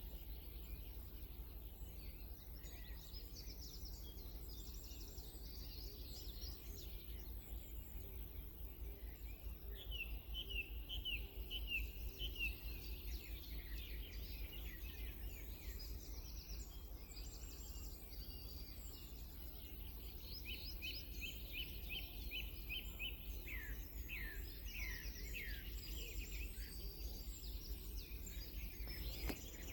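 Several songbirds singing at once, their phrases overlapping, with two stretches of quick repeated trilled notes: one about a third of the way in and another in the last third. A steady low hum sits beneath.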